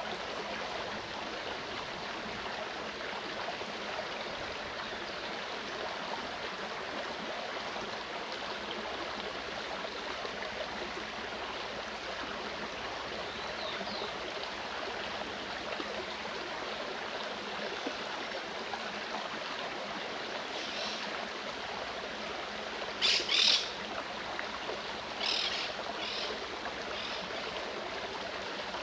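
Clear mountain stream running steadily over rocks. A forest bird gives two short loud high calls about two-thirds of the way through, then a few softer calls soon after.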